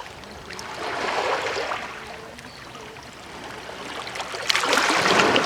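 Small waves washing in over a rocky shoreline, two swells of rushing, fizzing water, the second one louder near the end.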